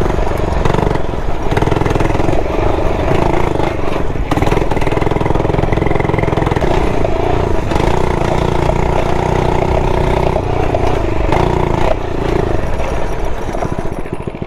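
99cc four-stroke engine of an FRP GMB100 gas mini bike running under throttle while being ridden, its note dipping and rising a few times as the throttle changes.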